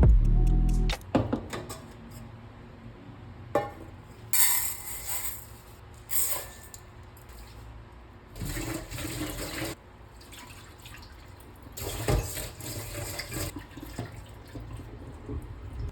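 Water running and splashing in several short spells, a few seconds each, like a tap run into a sink.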